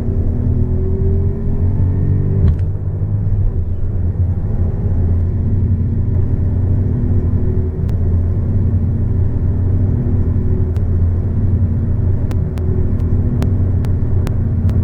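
Small petrol hatchback with a five-speed manual gearbox accelerating hard: deep engine and road rumble with the engine note rising, a brief dip about two and a half seconds in, then a steadier drone. Several sharp faint ticks near the end.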